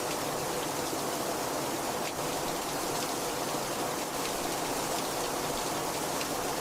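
Heavy rain falling steadily, a dense even hiss with faint scattered drop patters.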